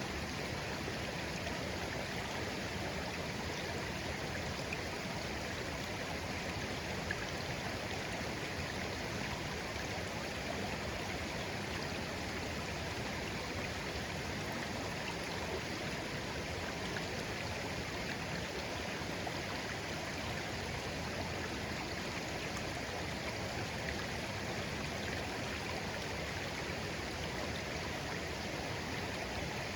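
A shallow clear stream flowing gently, a steady babbling of water over stones.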